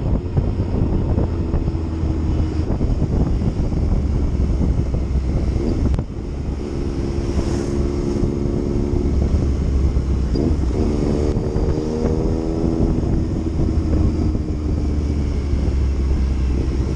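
Yamaha MT-09's inline three-cylinder engine running steadily while riding, with wind rushing over the microphone. The revs change briefly about ten seconds in, then settle again.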